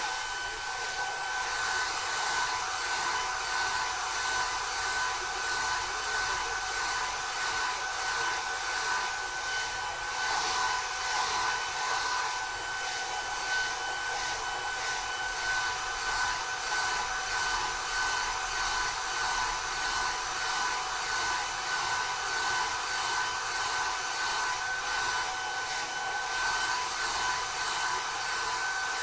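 Two hand-held hair dryers, a Panasonic and a TESCOM, running at once: a steady rush of blown air with a constant high whine, wavering a little as the airflow moves through the hair.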